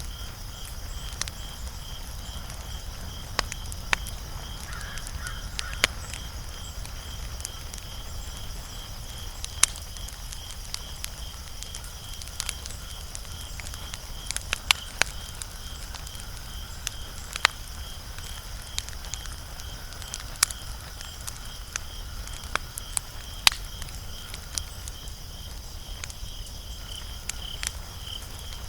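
Wood fire crackling, with sharp irregular pops, the loudest about 10, 15 and 23 seconds in, over a low steady rumble. Behind it runs a steady, evenly pulsing high chirp.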